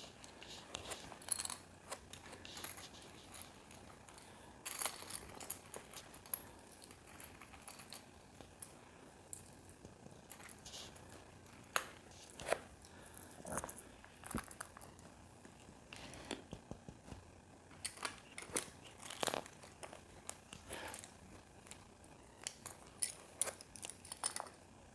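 Small plastic LEGO pieces being handled and pressed together: scattered light clicks and brief rustling.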